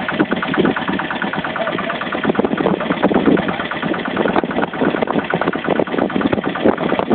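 Tractor engine running steadily with a fast, even pulsing.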